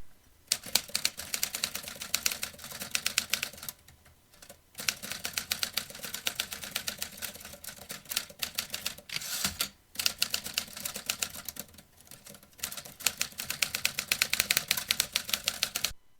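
Vintage manual typewriter being typed on: several bursts of rapid keystrokes, broken by short pauses.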